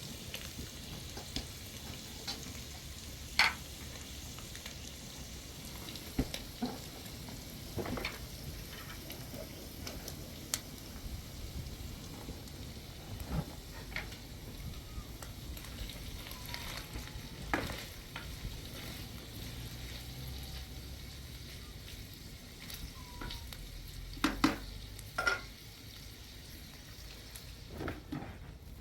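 Food frying in a pan: a steady sizzling hiss, with occasional sharp knocks of a utensil against the pan.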